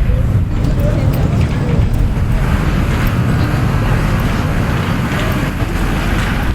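Busy city street noise: a heavy, flickering low rumble of traffic and wind buffeting the microphone, with a denser hiss of street noise building from about two and a half seconds in.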